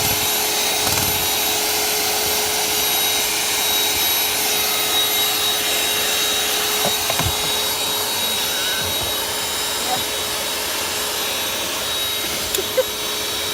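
Vacuum cleaner with a crevice tool attached running steadily, with a constant whine over its rushing airflow as it sucks at the car's interior. A couple of light knocks near the end.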